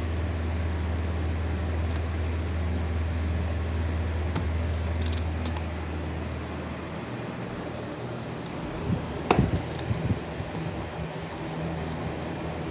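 A steady low hum that drops away about halfway through, with a few light clicks around five seconds in and a sharp knock followed by smaller knocks about nine seconds in.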